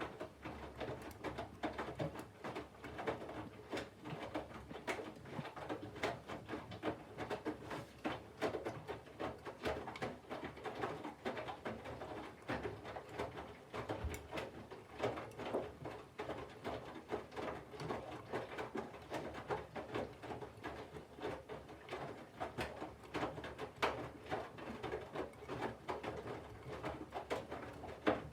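Candy front-loading washing machine drum turning wet laundry in water during the cold wash phase: continuous irregular sloshing and patter.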